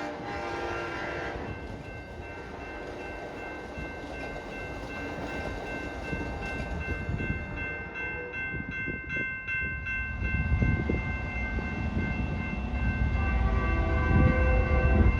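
Train horn chord fading out at the start, then a steady high-pitched ringing tone over a low rumble that grows louder toward the end as the train comes closer.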